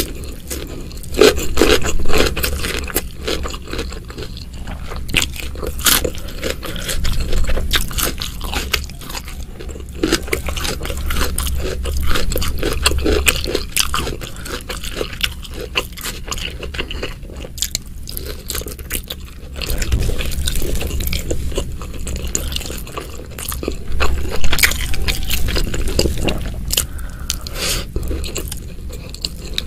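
Close-miked eating sounds: a person biting and chewing rice and spicy beef tendon by hand, in irregular short bites and mouth clicks, loudest about 2 seconds in and again around 25 seconds.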